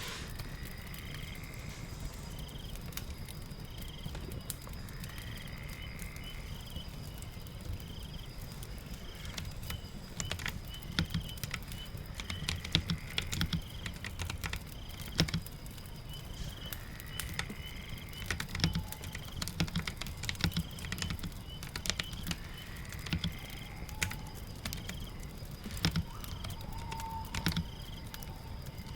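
Typing on a keyboard in irregular bursts of clicks, starting about ten seconds in, over a steady bed of rain and fireplace crackle. A faint high chirp repeats regularly in the background.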